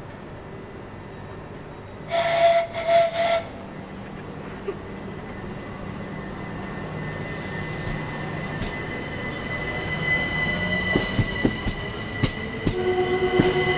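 A train horn gives three short blasts about two seconds in. Then a Class 375 electric train approaches and grows louder, with a steady whine and wheel clicks over the rail joints coming quicker toward the end.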